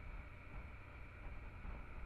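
Muffled, steady low rumble of a Honda Transalp XL650 motorcycle being ridden: wind buffeting on the camera mixed with road and engine noise.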